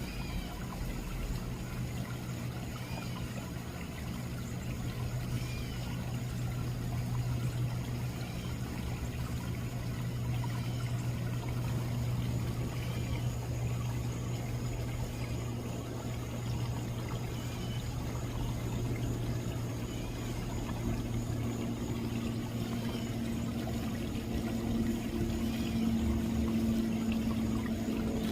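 Backyard pond waterfall splashing and trickling steadily, with a steady low hum underneath; a second, higher hum joins about two-thirds of the way through.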